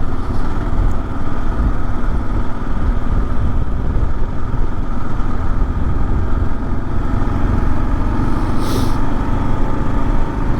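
Kawasaki KLR650's single-cylinder engine running steadily at road speed, mixed with wind noise on the microphone while riding. There is a brief hiss about nine seconds in.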